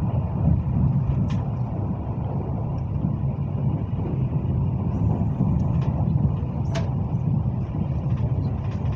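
Steady low rumble of a Hyundai Rotem HRCS2 electric train running at speed, heard inside the passenger car, with a couple of faint clicks.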